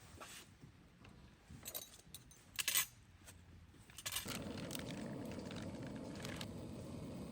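Light metallic clinks and rattles, like camp cookware being handled. About four seconds in, a steady rushing noise starts suddenly and holds.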